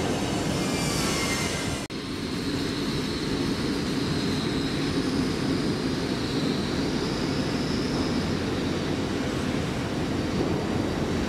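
Train at a station platform: high wheel squeal with gliding, falling tones for about two seconds. After a brief dropout, a steady rumbling hum follows with a faint high whine over it.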